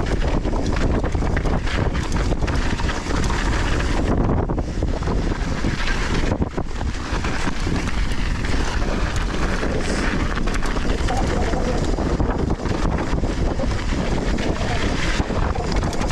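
Wind rushing over the action camera's microphone during a fast downhill mountain-bike descent, with tyre noise on loose volcanic soil and a steady run of small rattles and knocks from the bike over the rough trail.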